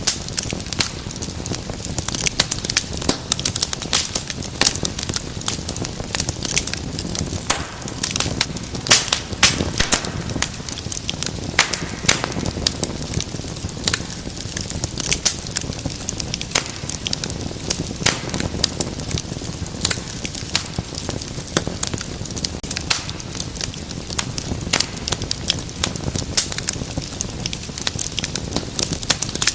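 Wood fire in a fireplace crackling steadily, with dense irregular pops and snaps over a low rush of flame.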